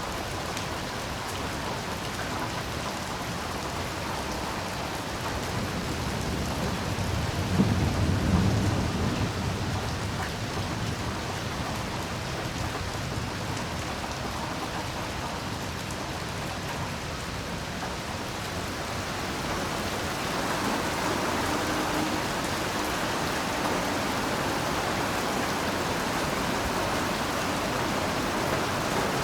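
Heavy rain falling steadily, with a low roll of thunder that swells and fades about eight seconds in. The rain grows a little heavier about two-thirds of the way through.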